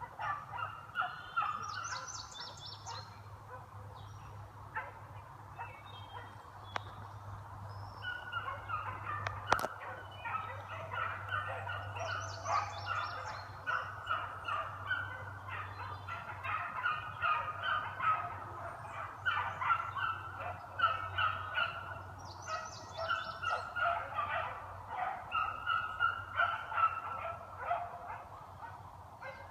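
A pack of beagles baying on a scent trail, many voices overlapping in quick repeated calls. The chorus thins out a few seconds in, then builds again and stays busy. A single sharp click about nine seconds in.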